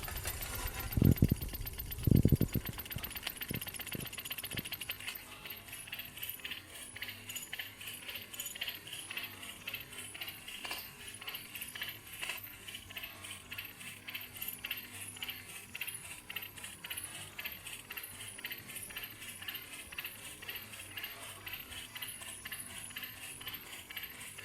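Homemade Stirling engine running, its moving parts making a steady, rapid rhythmic ticking and rattle. Two loud low thumps come about one and two seconds in.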